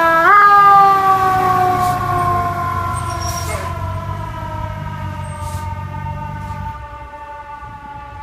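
Fire truck siren sounding one long, slowly falling tone after a brief rise at the start, with the truck's engine rumbling beneath. The tone dips about three and a half seconds in, and the engine rumble drops away near the end while the siren goes on.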